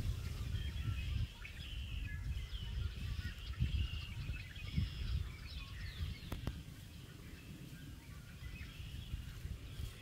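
Wild birds chirping and calling in short, repeated high notes, over a low rumbling noise on the microphone. A single sharp click about six seconds in.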